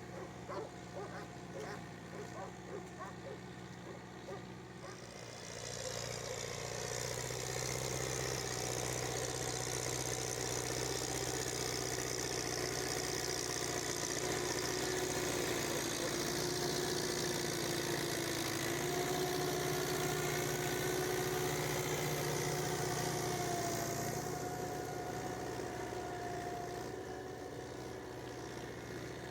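Tractor engine running steadily, getting louder about six seconds in and holding at that level, then easing slightly near the end.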